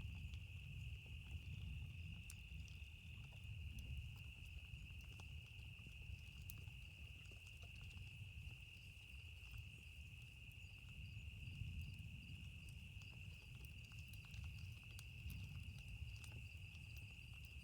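Campfire crackling with scattered small pops, over a low rumble of distant thunder that swells and fades. A steady high-pitched drone runs underneath.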